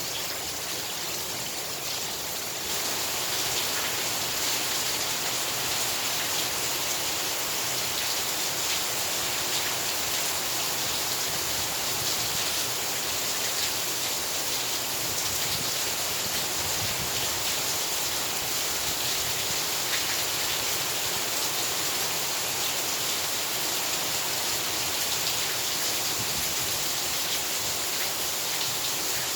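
Heavy rain pouring steadily, a dense even hiss that gets louder about three seconds in and then holds.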